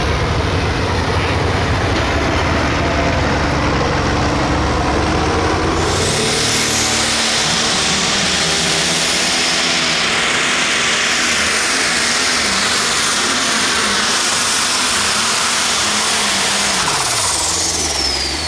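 Turbocharged diesel pulling tractor running hard under load on a sled pull, its engine pitch wavering. A loud high-pitched rush builds about six seconds in. Near the end a whistle falls in pitch and the engine sound drops as the run winds down.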